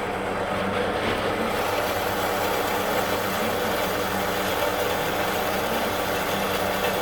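A machine running steadily, a constant low hum under an even rushing noise.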